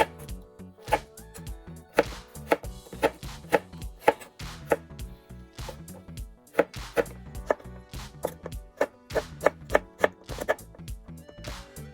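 Kitchen knife chopping carrot on a cutting board in sharp, irregular strokes, about two a second, over background music.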